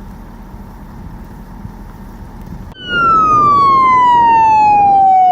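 Steady traffic noise, then an emergency vehicle siren starts suddenly about two and a half seconds in, loud, its wail falling slowly in pitch and turning to rise again at the end.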